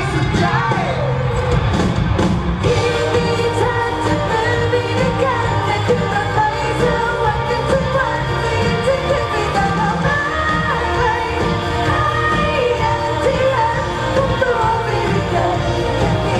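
Pop song: a lead voice singing over full backing music.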